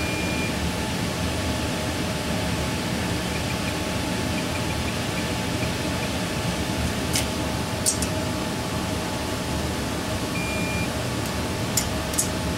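Steady background hum and hiss, with a few short sharp clicks from a click-type torque wrench as the lifter retainer bolts reach 12 foot-pounds: two about seven and eight seconds in, and two close together near the end.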